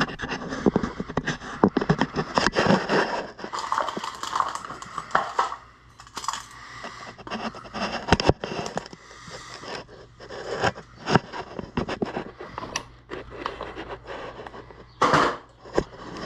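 Irregular scrapes, rustling and knocks of hands-on handling, with many sharp clicks scattered through and a quieter stretch about six seconds in.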